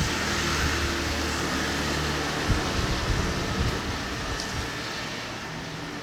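Strong wind blowing, with gusts buffeting the microphone as low thumps, and a steady low hum underneath in the first half; the wind eases slightly toward the end.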